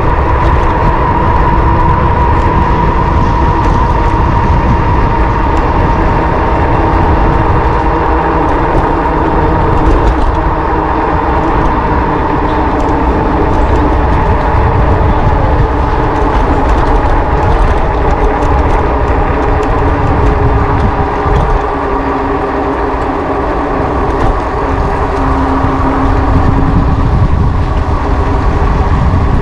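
Wind buffeting the microphone of a camera riding on a moving electric bike, over a steady whine from the e-bike's motor.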